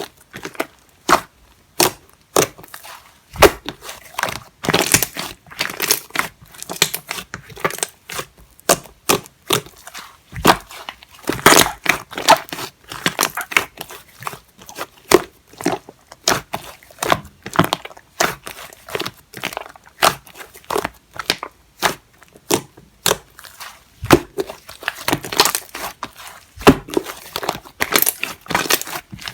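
Clay-mixed slime being squeezed, pressed and stretched by hand, giving irregular sticky pops and clicks with denser crackling stretches.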